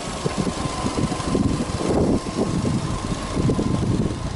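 Subaru Legacy 2.0GT Spec B's EJ20 turbocharged flat-four engine idling with the hood open, a thin steady whine over the low running sound.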